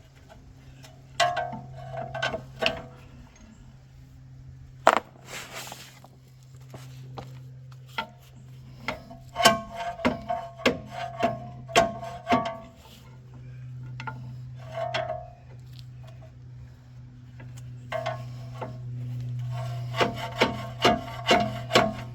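Hand tools on a truck's front strut and suspension: scattered metal clinks, knocks and scraping, with runs of quick strikes about ten seconds in and again near the end, over a steady low hum.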